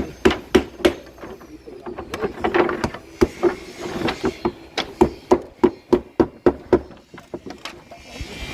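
Hammer blows on wood, about three a second, each with a short ringing tone: a short run at the start, then a longer run from about three seconds in.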